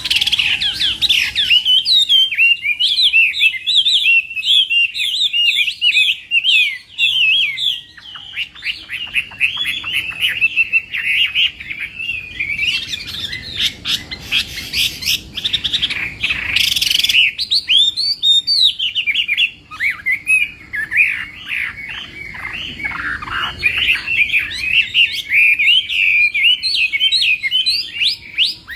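A Chinese hwamei (hoạ mi) sings its fighting song: a near-continuous, rapid run of varied whistled phrases, many sliding down in pitch. A brief loud noisy burst comes about 16 seconds in.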